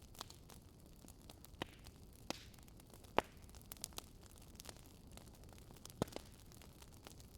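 Wood fire crackling: irregular sharp pops and snaps over a soft steady hiss, with the loudest pop about three seconds in and another near six seconds.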